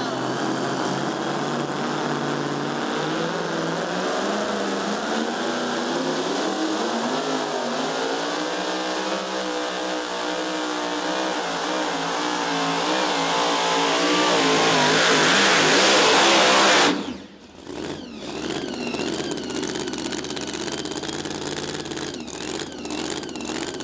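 Supercharged Hemi engine of a super modified two-wheel-drive pulling truck at full throttle, its pitch climbing and wavering as it grows louder, then cutting off suddenly about seventeen seconds in. An engine runs lower and steadier afterwards.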